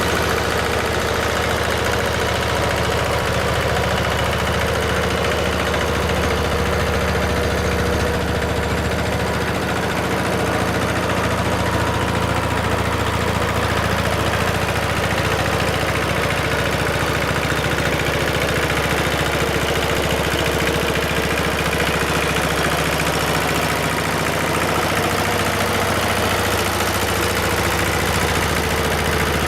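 Engine of a vintage Kubota L13G tractor running steadily at an even, low speed.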